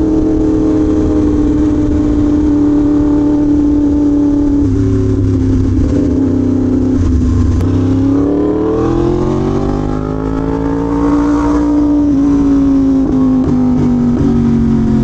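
Yamaha R1M motorcycle's crossplane inline-four engine running at a steady cruise. About eight seconds in the pitch dips as the throttle eases, then climbs on acceleration and slowly settles back down.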